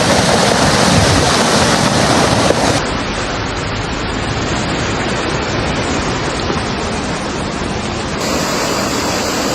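Loud, steady rushing of floodwater, changing abruptly about three seconds in and again about eight seconds in as one stretch of water noise gives way to another.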